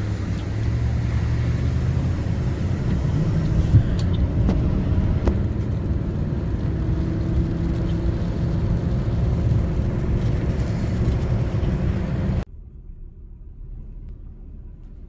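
Low, steady rumble of a car's engine and tyres heard from inside the cabin while driving, with a couple of sharp clicks about four and five seconds in. The noise drops off suddenly near the end to a much quieter hum.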